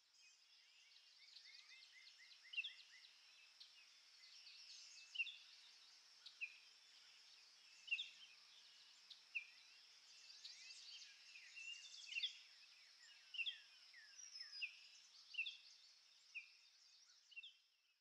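Small birds chirping faintly: sharp high chirps every second or two, mixed with quick little falling notes, over a steady faint high hiss.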